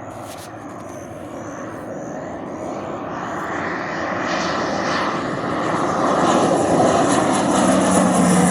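Aircraft flying in and growing steadily louder as it approaches, with a thin high whine rising out of the engine noise in the second half.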